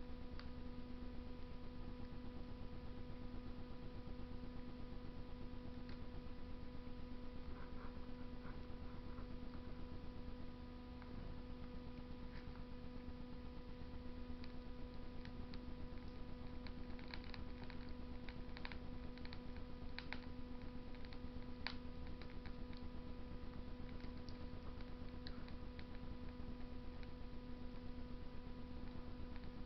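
Wood fire burning in a Russian masonry stove: faint scattered crackles and pops, clustered in the middle stretch, over a steady electrical hum.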